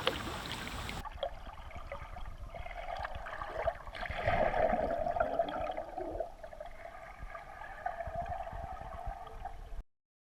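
Water gurgling and lapping around a canoe as it moves off through the water, louder in the middle and cutting off suddenly near the end.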